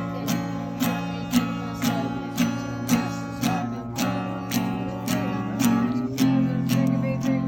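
Acoustic guitar strummed in a steady rhythm, about two strums a second, with voices singing along.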